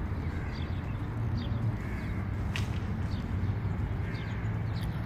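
Birds calling outdoors with short, high, repeated chirps over a steady low rumble.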